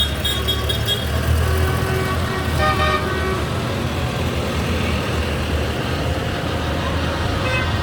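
Engines of passing tractors and vehicles in a parade, running with a steady low rumble. A rapid high beeping runs through the first second, and a vehicle horn toots briefly about three seconds in.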